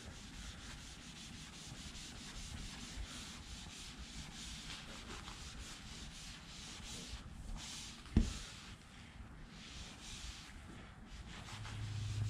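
Applicator sponge rubbed over plastic car trim: faint, repeated scrubbing strokes, with a single short knock about eight seconds in.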